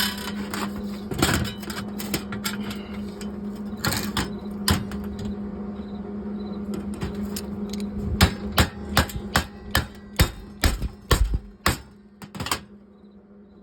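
Hammer blows on sheet metal, a few scattered at first, then a run of sharp strikes about two a second, over a steady low hum.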